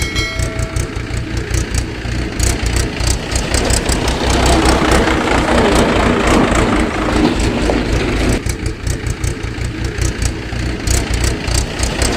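An engine running at idle with a dense, steady rattle, heavier for a few seconds in the middle and lighter near the end.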